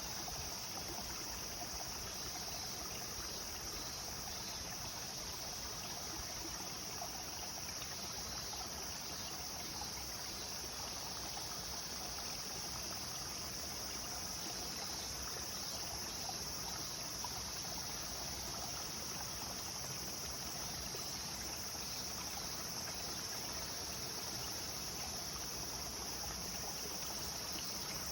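A clear river flowing, a steady rush and trickle of water, with a constant high-pitched hiss over it.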